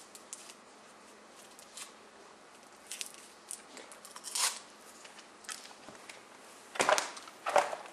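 Faint scattered clicks and crackly rustles, with two louder crunching scrapes near the end.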